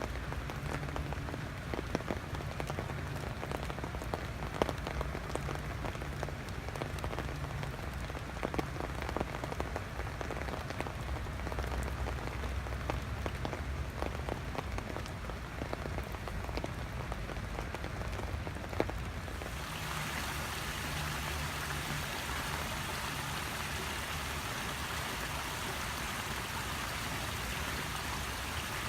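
Rain falling, with sharp individual drop hits over a steady wash. About two-thirds of the way through, the sound switches abruptly to an even, brighter hiss of rain.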